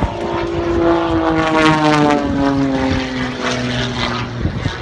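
Propeller airplane flying low past, its engine note sliding steadily downward in pitch as it goes by, loudest about halfway through.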